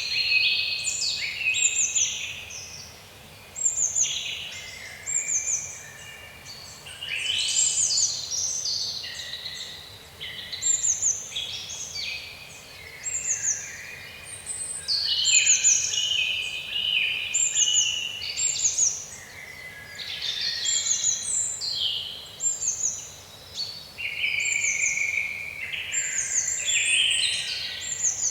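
Songbirds singing: dense phrases of short, high chirps and quick falling whistles, overlapping, with brief pauses between phrases.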